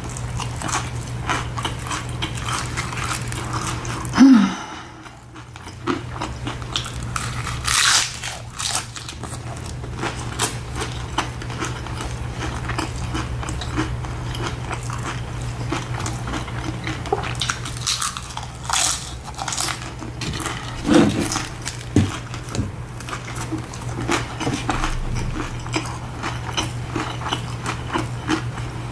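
Close-up eating of tacos: repeated crunchy bites and chewing, over a steady low hum. A brief low falling tone sounds about four seconds in, and again about 21 seconds in.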